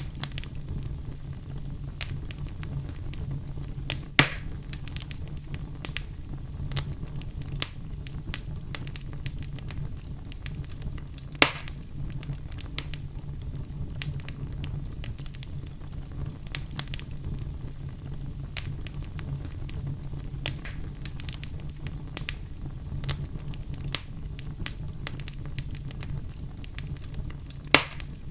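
Wood fire burning in a fireplace: a steady low rumble with frequent irregular crackles, and a few louder pops about four, eleven and twenty-eight seconds in.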